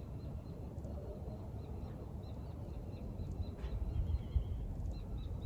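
Quiet outdoor ambience: an uneven low rumble of wind on the microphone with faint, scattered bird chirps.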